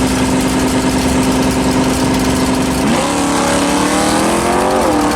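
Car engine running at a steady idle; about three seconds in its note changes and it revs up briefly, then settles back.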